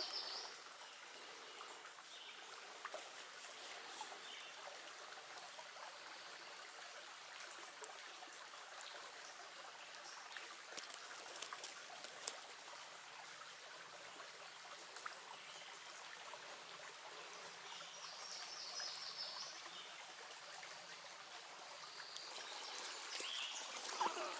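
Small creek's water trickling steadily over stones, faint, with a few light clicks.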